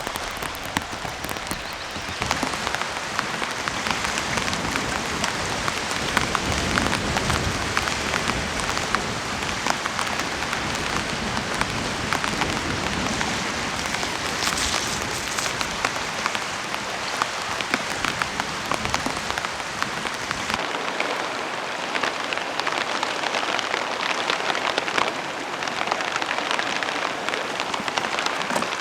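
Rain falling steadily, a dense hiss with many individual drops ticking through it. About twenty seconds in, the deeper part of the sound drops away and the rain continues lighter in tone.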